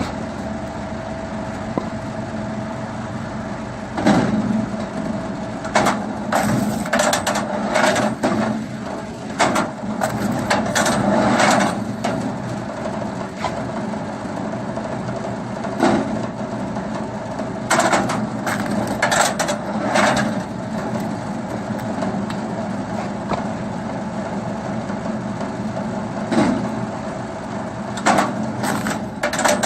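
Engine-driven firewood splitting machine running steadily, with repeated bursts of wood cracking and crunching as logs are split, some single cracks and some clusters of several.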